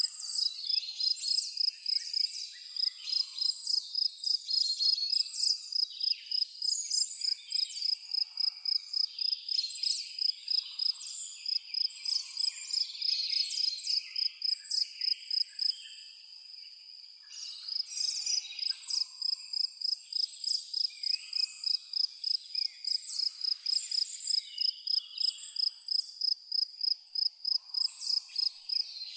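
A cricket chirping in a steady, even pulse of several chirps a second, stopping for a second or two just past the middle, while birds call and twitter over it.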